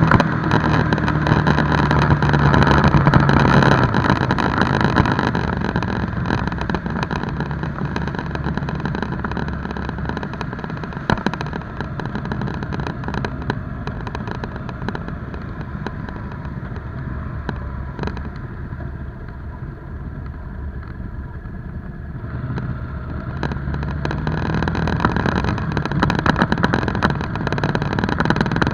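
Motorcycle engine running under way: strong at first, easing off to a quieter stretch past the middle, then rising in pitch and getting louder again as it accelerates near the end.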